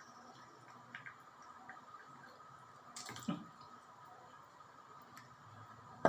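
Faint kitchen handling sounds: a few light clicks and taps, a louder knock about three seconds in, and a sharp click near the end.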